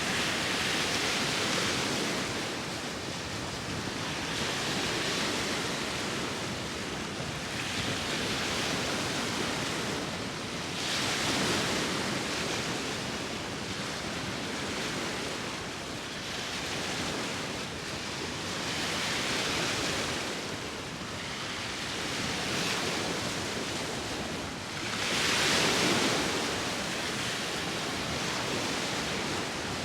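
Sea waves breaking and washing in and out, a fresh surge every four to five seconds with a steady rush of surf between, the largest wave about 25 seconds in. Wind adds to the hiss.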